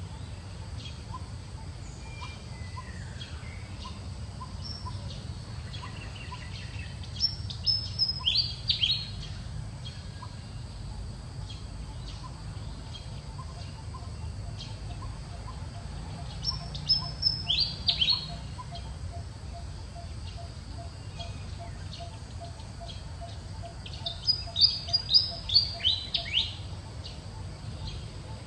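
A songbird singing three short phrases spaced several seconds apart, each a quick run of high notes that sweep downward, over a steady background hiss and a faint, evenly repeated lower note.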